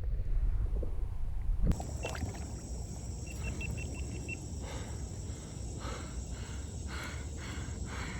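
Low rumble of wind on the microphone over running creek water; after a sudden change about two seconds in, a steady high insect buzz with a brief fast trill and then regular chirps about twice a second, typical of crickets in summer.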